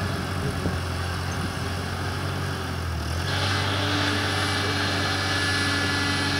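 Ford 8N tractor's four-cylinder engine running steadily. About three seconds in, the engine note shifts slightly higher and a rougher hissing noise joins it.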